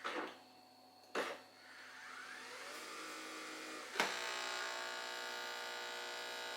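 Two short knocks, then about four seconds in a click and a Nespresso coffee machine's pump starts running with a steady hum, pushing water through on its first-use cleaning rinse.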